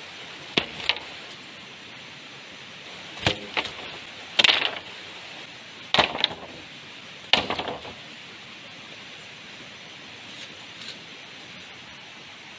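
Steady rain hiss with a series of sharp wooden-sounding strikes, mostly in close pairs, over the first eight seconds, each dying away quickly.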